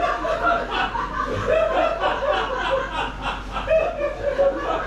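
Several people laughing and chuckling at a joke.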